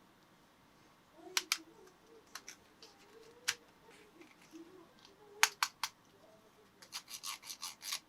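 Hands handling an unboxing's packaging and model: scattered sharp clicks and taps with rubbing and scraping, ending in a quick run of about eight clicks.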